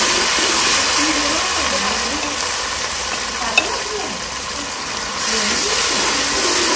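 Onion and garlic tadka sizzling steadily in hot mustard oil in a steel kadhai as chopped saag is stirred in with a steel ladle, with a single sharp click about three and a half seconds in.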